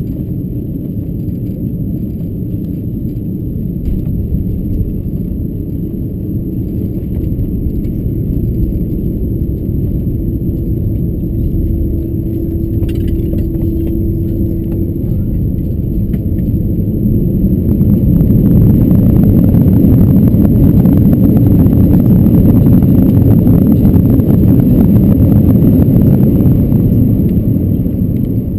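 Cabin noise of an Airbus A330-223 on the runway: a steady rumble with light rattles that swells about two thirds of the way through into a much louder rumble for some nine seconds, then dies down near the end. This is typical of the Pratt & Whitney engines' reverse thrust and braking during the landing rollout.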